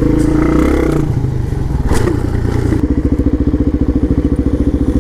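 Dirt bike engine running at low speed with an even firing beat, briefly revved near the start, with a thump about two seconds in.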